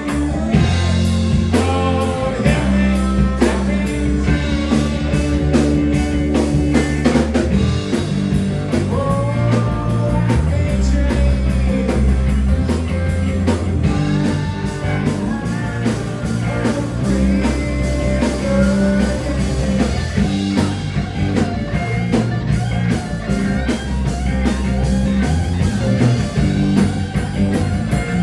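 Rock music with electric guitar lines that bend and glide, over bass and a drum kit, playing steadily throughout.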